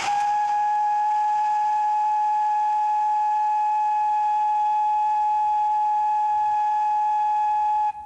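Whistle of a 1902 American LaFrance steam fire engine sounding one long steady note, cutting off just before the end.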